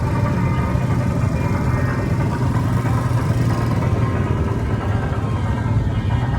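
Motorcycle engine running steadily at an even, low pitch.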